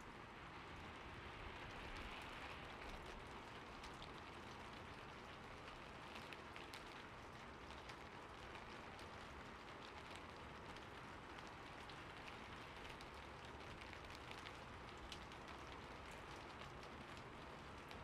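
Faint, steady rain: an even hiss dotted with many small, irregular droplet ticks.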